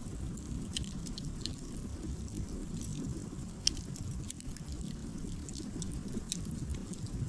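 Wood campfire crackling: scattered sharp snaps and pops over a steady low rumble, with one louder pop about three and a half seconds in.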